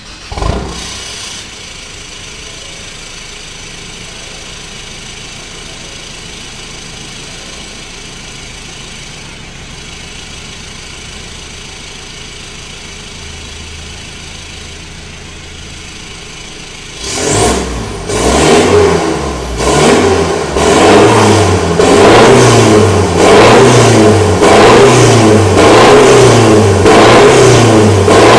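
Pickup truck engine running through a new full stainless-steel exhaust. It starts up about half a second in and idles steadily. From about two-thirds of the way through it is blipped in a quick series of short revs, about one a second.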